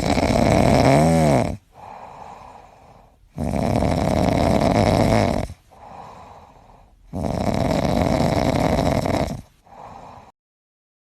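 Snoring: three long, loud snores about three and a half seconds apart, each followed by a quieter breath out, stopping abruptly near the end.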